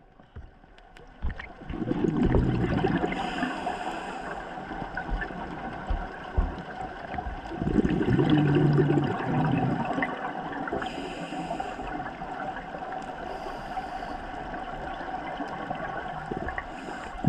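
Scuba diver breathing through a regulator underwater: two long gurgling bursts of exhaled bubbles, with short hisses of inhalation between them.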